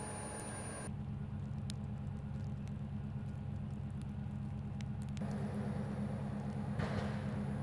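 Steady low rumble of a motor vehicle's engine, with a hiss of tyres on the road rising about five seconds in and loudest near the end.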